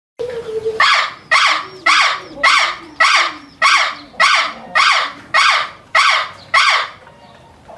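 An animal's harsh call, repeated about eleven times in a steady rhythm of nearly two a second, starting and stopping abruptly.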